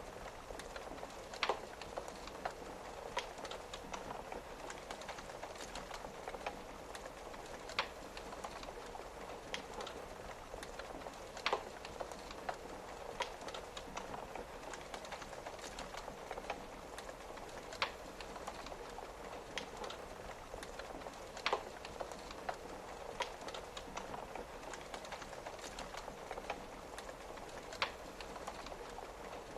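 A wood fire crackling, with sharp pops every few seconds, over a steady patter of rain on a window.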